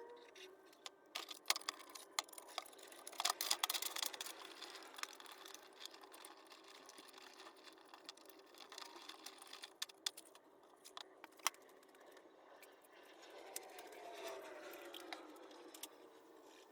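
Faint metallic clicks and clinks of hand tools and engine parts being handled, thickest in the first few seconds, then scattered.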